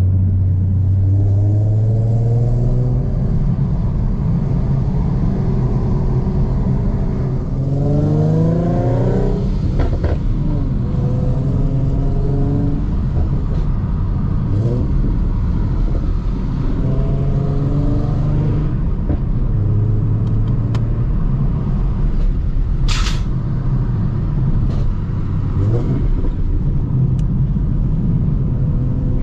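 Ford Mustang V6 with a Roush aftermarket exhaust running under load, the engine note holding steady and then climbing in pitch as the revs rise, over a constant low exhaust rumble. A brief, sharp high-pitched chirp sounds about three-quarters of the way through.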